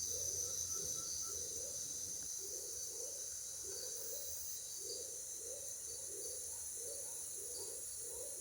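Tropical rainforest ambience: a steady high drone of crickets and other insects, with a low animal call repeating about twice a second.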